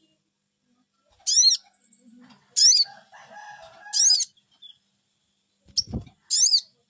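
High-pitched bird call repeated four times, each a quick warbling sweep under half a second long, from a lure recording meant to get a caged sogok bird singing. A short low thump comes about six seconds in.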